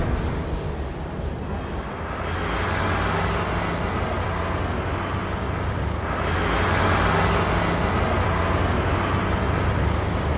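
Road traffic noise: a steady low rumble with a noisy wash that swells about two and a half seconds in and again around six seconds in, like vehicles passing.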